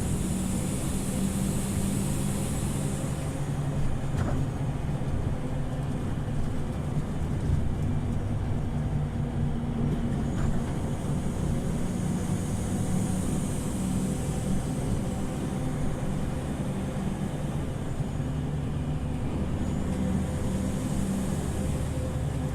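Scania OmniLink city bus running steadily under way, heard from inside the passenger cabin: a steady engine drone with road noise, and a high hiss that swells and fades three times.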